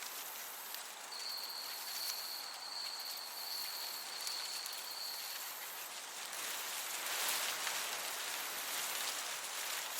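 Summer meadow ambience: crickets chirping over a steady high hiss, with one cricket holding a single high, steady trill from about a second in until about halfway through. A gentle breeze swells briefly a little past the middle.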